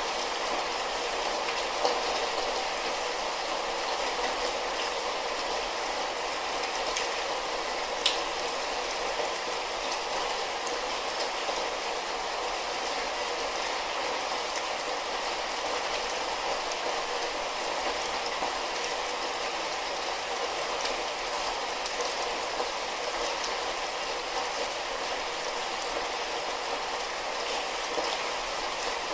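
Light rain falling steadily, an even hiss with an occasional sharper drip or tap, a few times.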